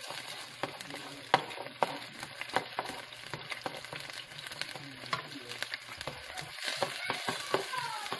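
Chicken wings, onion and garlic sizzling in hot oil in a nonstick frying pan, with a spatula repeatedly scraping and knocking against the pan as they are stirred; the sharpest knock comes about a second and a half in.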